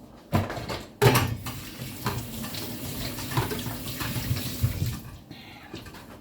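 Water running from a tap into a sink, starting with a bang about a second in and running steadily until it stops about five seconds in, with a few knocks in the basin.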